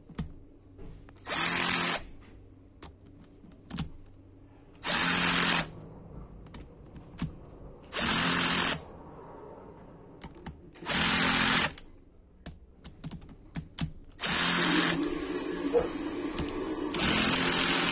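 Cordless drill-driver spinning in six short bursts about three seconds apart, running bolts down at a low clutch setting of about 5 Nm. There are light clicks between the bursts.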